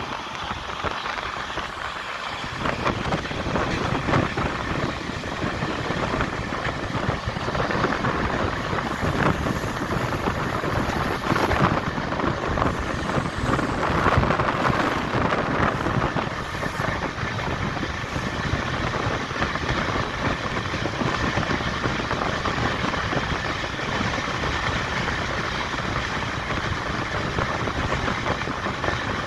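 Express passenger train running at speed: a steady, dense rush of wheel-on-rail noise that swells and deepens about two seconds in, then holds.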